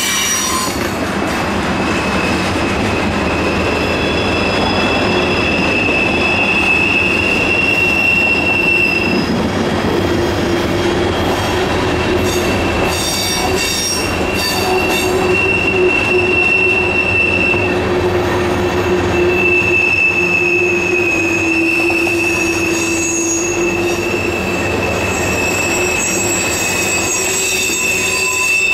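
Freight train cars rolling past with a steady rumble of wheels on rail and long, high wheel squeal that swells and fades as the cars go by.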